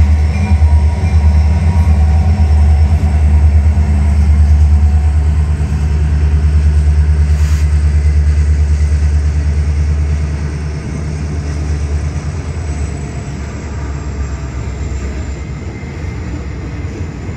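Union Pacific diesel freight locomotives passing with a loud, steady low engine rumble, which weakens after about ten seconds as the engines go by and the train's cars keep rolling past.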